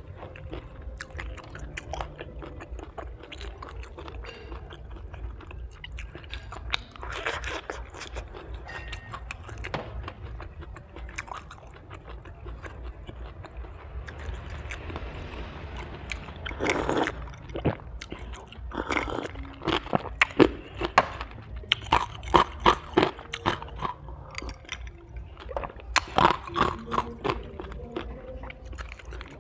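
A person chewing a mouthful of sticky bánh tét rice cake close to the microphone: wet clicks and smacks of the mouth at irregular intervals, growing busier and louder in the second half, over a steady low hum.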